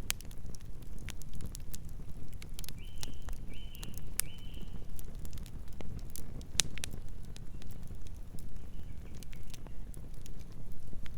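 Wood campfire burning, with irregular sharp crackles and pops over a low steady rumble. Three short high chirps come in quick succession about three seconds in, and fainter ones near the end.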